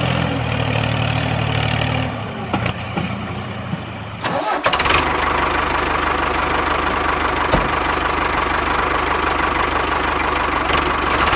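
Vehicle engine running steadily. It gets quieter about two seconds in, then gives way abruptly around four and a half seconds in to a different steady engine hum with a high whine.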